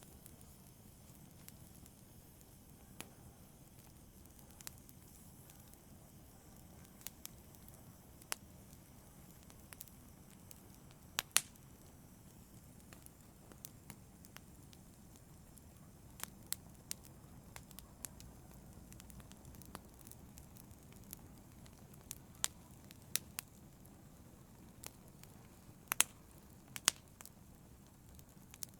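Wood fire burning in a fireplace: a low steady rumble of flames with sharp pops and crackles of burning wood at irregular intervals, a few louder snaps among them.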